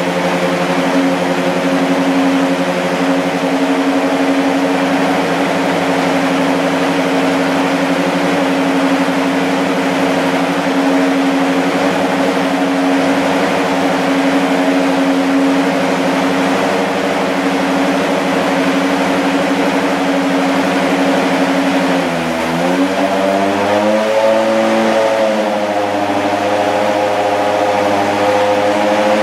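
Lexus SC430 GT500 racing car's V8 engine idling steadily while it warms up. About 22 seconds in, the revs dip briefly, then climb and settle into a slightly higher steady idle.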